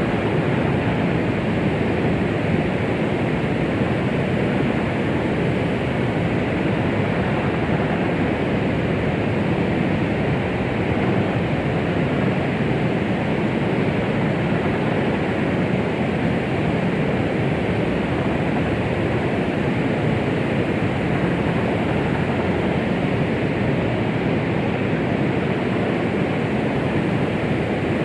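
Continuous white-noise track meant to mimic the sound of the womb and calm a baby: an even, steady rushing hiss, strongest in the lows and mids and fading off in the highs, with no rhythm or changes.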